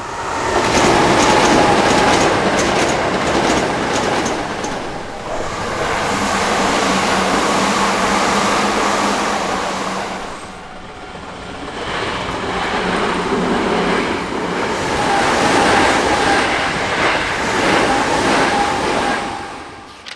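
Hankyu Kyoto Line electric trains passing close by at level crossings, wheels clattering over the rail joints with a steady ringing tone above the rumble. The sound dips twice, about five and ten seconds in, as one passing train gives way to the next.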